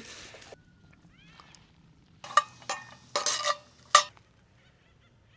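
Animal calls: a few faint chirps, then four short harsh calls about two seconds in, the last the loudest.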